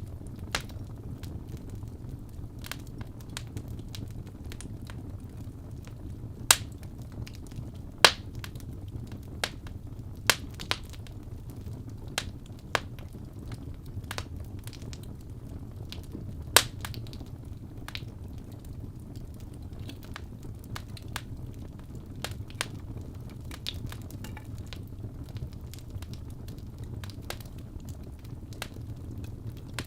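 Wood fire burning in a fireplace: a steady low rumble of the flames with sharp, irregular crackles and pops, a few of them much louder than the rest.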